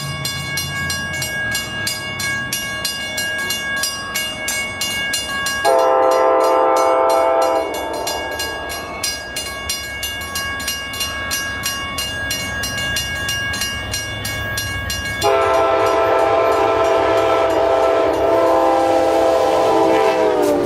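Amtrak locomotive horn sounding two blasts as the train approaches and passes: a short one about six seconds in and a long one starting about fifteen seconds in, whose pitch drops near its end as the train goes by. A fast, even ticking and steady high ringing tones run underneath.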